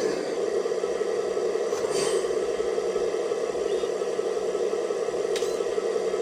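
Simulated diesel truck engine sound idling steadily from the onboard sound module's speaker of a Double E Scania G540 XT RC dump truck, with two faint ticks, about two seconds in and again near the end.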